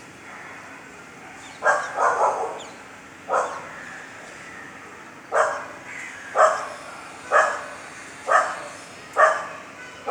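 A dog barking: a few barks in quick succession, then single barks about once a second over a low steady background.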